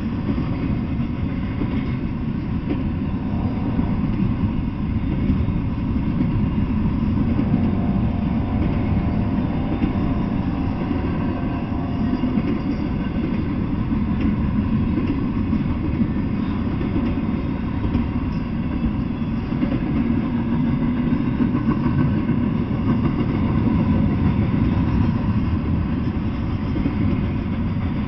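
Double-stack intermodal freight train rolling past, a steady low rumble.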